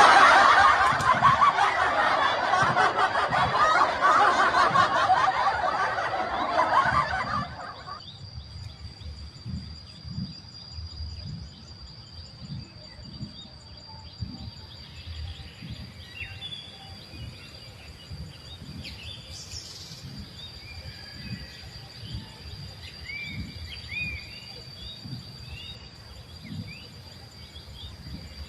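A loud, dense chorus of chattering bird calls that cuts off abruptly about seven and a half seconds in. After it comes a quieter background with a steady high-pitched tone and scattered faint chirps.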